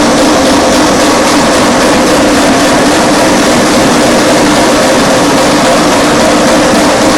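Sawdust briquetting press running steadily under load: a loud, even machine drone with a constant low hum.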